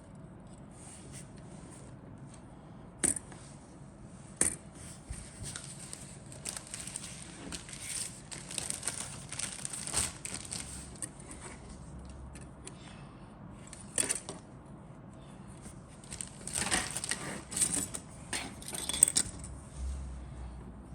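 Plastic model kit parts and packaging being handled: sharp clicks of hard plastic knocking together, with stretches of crinkly rustling, twice in the middle and again near the end.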